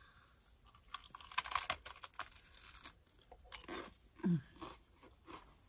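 Crunching and chewing of a bite of wrap filled with crisp raw vegetables and peanut sauce, a run of sharp crunches in the first half and softer chewing after. A brief hummed 'mm' about four seconds in.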